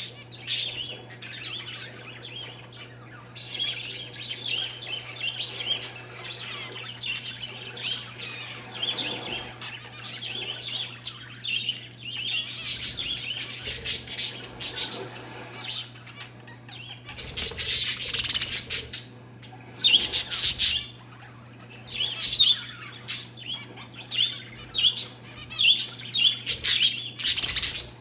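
Parakeets and zebra finches chirping continuously, with many overlapping short chirps and louder bursts of calling now and then. A steady low hum runs underneath.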